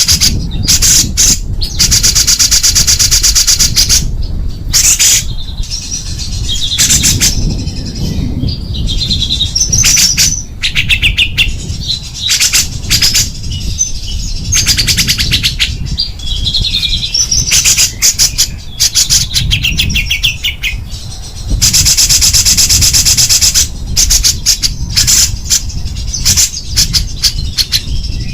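Small songbird singing loud, rapid, harsh high-pitched trills ('tembakan'), with two long rattling runs and many short bursts between, mixed with a few clearer whistled notes, over a low background rumble.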